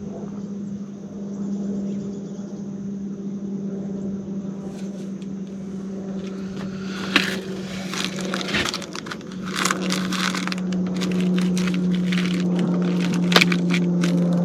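A steady low motor hum, with scattered clicks, crackles and scrapes joining it from about five seconds in.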